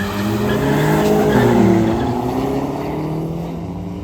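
Racing engines accelerating hard, several engine notes rising and falling in pitch at once. They are loudest a second or two in, then ease off.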